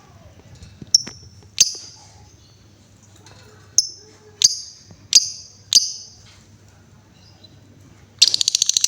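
Female lovebird calling: six sharp, high chirps spaced over the first six seconds. Near the end it breaks into a fast rattling trill.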